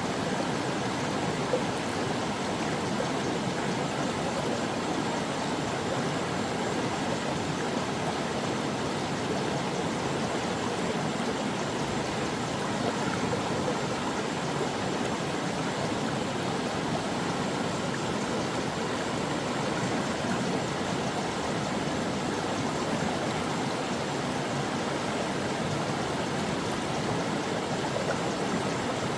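A mountain stream's water flowing over its bed: a steady, even rush of running water that never breaks or changes.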